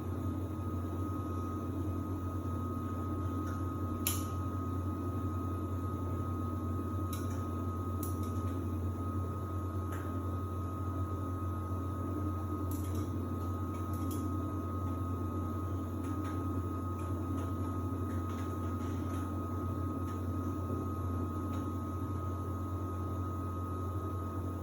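Samsung WD70T4047CE washer-dryer running in its drying stage: a steady low hum with a thin high whine, and a few faint clicks now and then.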